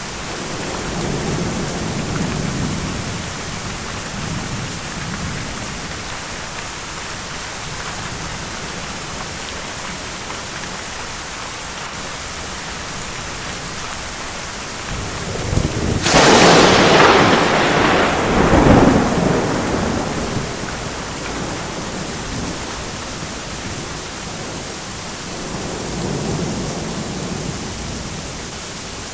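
Steady heavy rain with thunder rumbling low near the start and near the end. About halfway through comes a loud thunderclap: a sharp crack that rolls into a rumble over a few seconds.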